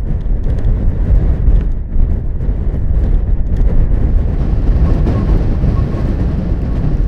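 Gale-force blizzard wind buffeting the microphone: a loud, gusting low rumble.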